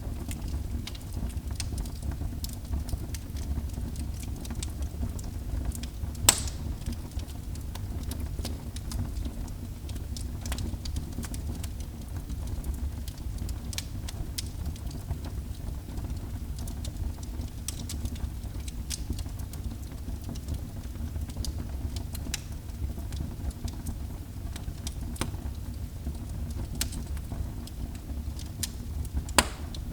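Wood fire burning in a fireplace, crackling with scattered sharp pops over a steady low rumble; the loudest pops come about six seconds in and again near the end.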